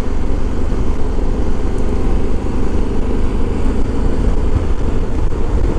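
Honda Africa Twin motorcycle riding at a steady pace, its engine and road noise making an even, continuous low rumble.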